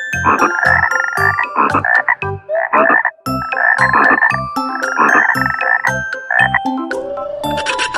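A frog croaking over and over in loud, rasping pulses, several a few seconds.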